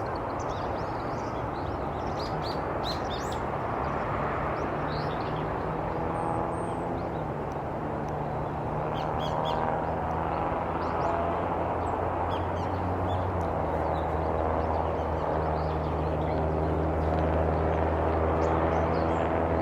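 Steady low engine drone that grows louder in the second half, with a few scattered short, high bird chirps over it.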